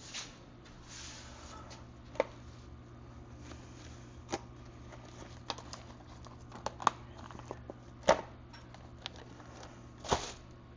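Scattered light clicks and knocks of small motorcycle front-wheel parts, such as the axle sleeve, being handled and set down, over a steady low hum.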